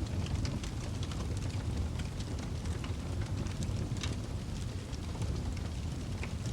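Wood fire burning in a fireplace: a steady low rumble of the flames with scattered crackles and sharp pops throughout.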